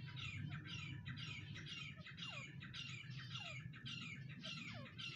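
Francolin (teetar) calling: harsh, scratchy notes repeated about twice a second, with a falling note about once a second, over a low steady hum.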